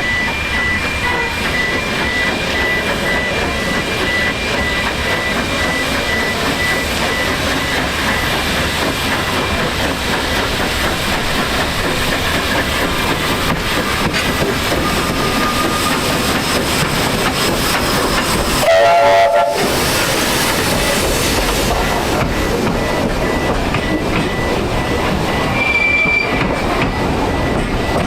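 A narrow-gauge steam train running on the rails: steady running noise with wheel clatter and a thin high squeal of wheels on the rails. A short, louder tone sounds about two-thirds of the way through.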